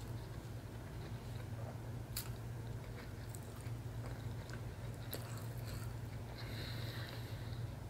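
Close-miked chewing of a soft, juicy catfish sandwich: wet mouth sounds with a couple of sharp clicks about two and five seconds in, over a steady low hum.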